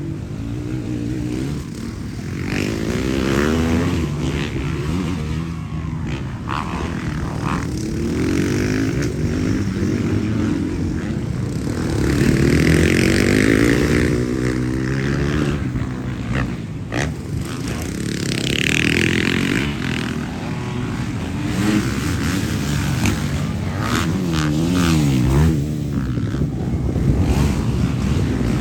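Several motocross bike engines racing, revving up and down over and over as riders work through the track, now and then overlapping. There are a few sharp clicks among them.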